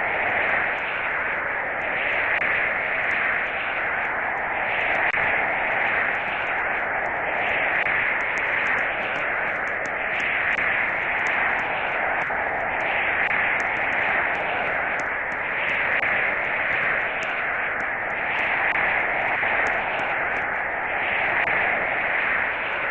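Steady static-like hiss that swells and eases about every two seconds, with faint crackles over it.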